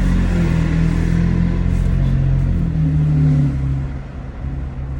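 2019 Toyota Tacoma TRD Pro's 3.5-litre V6 running through an MBRP 3-inch cat-back exhaust with a deep note, pulling under acceleration; it eases off briefly about four seconds in, then picks back up.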